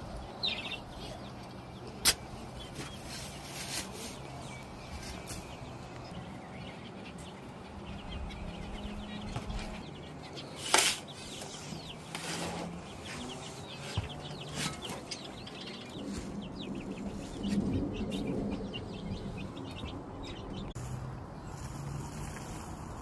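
Aviary parakeets and finches chirping and twittering, with low repeated calls underneath and a few sharp knocks. A loud flurry comes about eleven seconds in.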